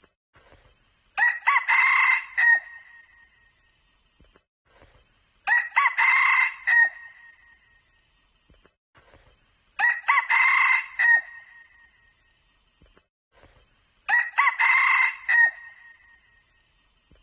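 Red junglefowl crowing four times at an even pace, about one crow every four seconds, each a loud, short crow of about a second and a half.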